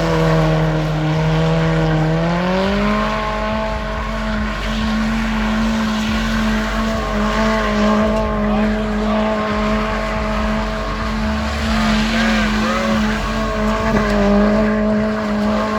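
Car engine held at high revs while its spinning tyres squeal; the engine pitch climbs a step about two seconds in and then holds steady.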